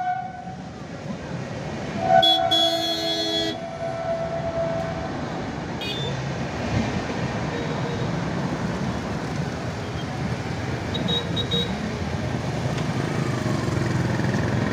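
Passenger train crossing the railway bridge overhead with a steady low rumble. A horn blasts loudly about two seconds in for over a second, one tone trailing off a little later, and short high beeps sound about eleven seconds in.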